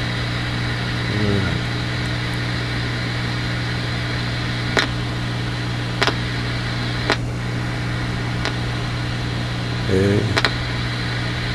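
Steady low electrical hum with hiss, broken by a few sharp clicks about five, six and seven seconds in.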